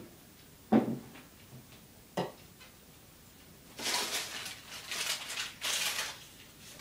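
Pet birds moving about in their cage: a few sharp knocks, then from about halfway in several bursts of rustling and wing-flapping.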